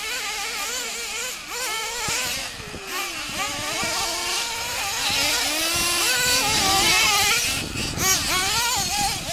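Radio-controlled monster trucks' small engines running together, revving up and down quickly as they race, with overlapping high buzzing pitches that keep rising and falling.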